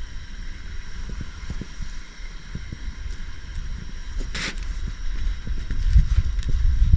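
Wind rumbling on the microphone, louder toward the end, with a few light clicks and a short hiss about four and a half seconds in.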